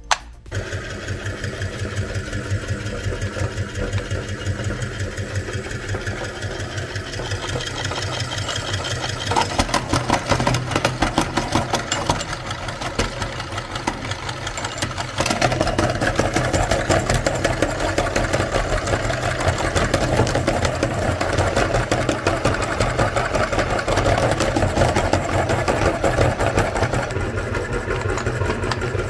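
A meat grinder's motor runs steadily while chalk is fed through and crushed. A dense crackling of grinding builds up about a third of the way in, and the sound gets louder about halfway through.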